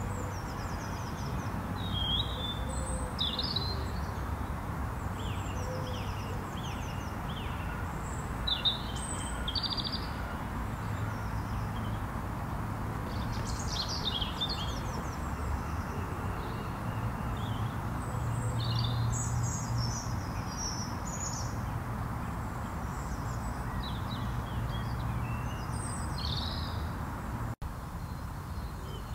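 Small birds chirping and singing in short, scattered phrases, over a steady low rumble of background noise. The sound drops out for an instant near the end.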